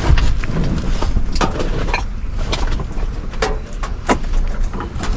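Rummaging through food packaging: an irregular run of plastic rustles, crinkles and small clicks as things are handled.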